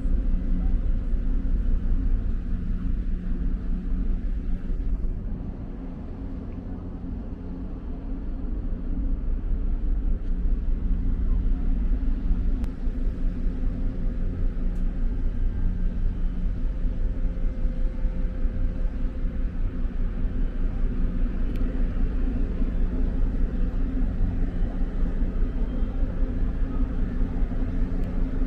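Steady low engine rumble of a moving vessel or vehicle. It dips quieter for a few seconds early on, then returns with a fast, even pulsing.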